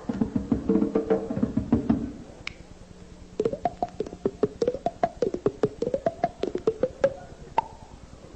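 Live percussion music: for about two seconds a band drums with sustained notes, then after a short lull a run of rapid sharp strikes whose pitch slides up and down, fading out near the end.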